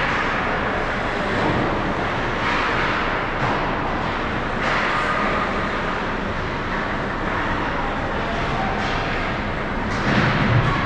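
Ice hockey rink ambience during a game: a steady wash of echoing arena noise, broken a few times by brief louder scrapes.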